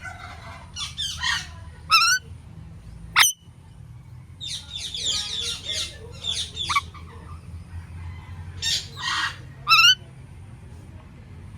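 Indian ringneck parakeet calling: a few sharp, piercing shrieks and bursts of fast chattering, with pauses between. A steady low hum runs underneath.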